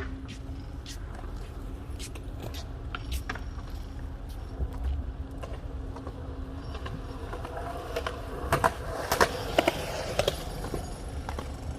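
Bicycle riding along a paved path: a steady low rumble of tyres and wind with scattered sharp clicks and rattles, which bunch up and get louder about eight to ten seconds in.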